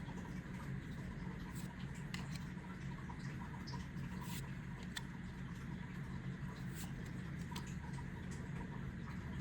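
Trading cards being handled and slid through the hands, giving light, irregular ticks and scratches over a steady low hum.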